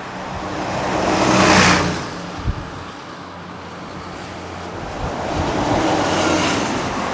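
Road traffic passing: a rush of vehicle noise swells and fades about a second and a half in, then builds again near the end. There is a short thump about two and a half seconds in.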